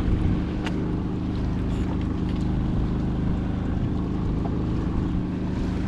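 Predator 3500 portable generator running at a steady speed, making a constant engine hum, with one light click about half a second in.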